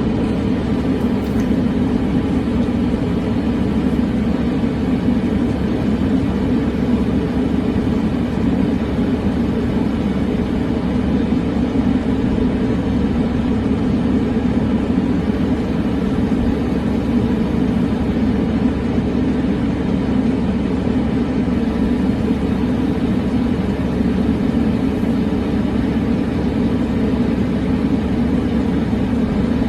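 Steady, even rumbling noise with no distinct events, much like road traffic or a running engine.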